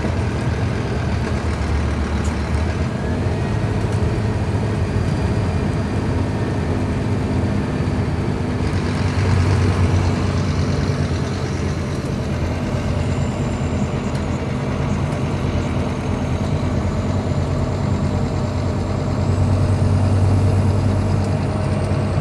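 Scania K310IB bus engine running steadily, with a low hum that grows a little louder twice, around ten and twenty seconds in.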